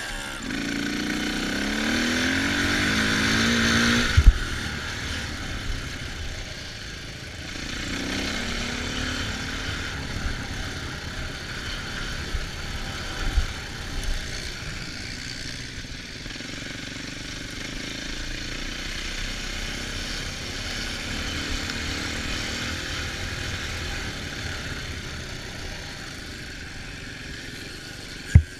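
Dirt bike engine being ridden on a trail. It revs up with a rising pitch over the first few seconds, then keeps running at varying throttle, with a sharp knock about four seconds in and a couple of thuds later on.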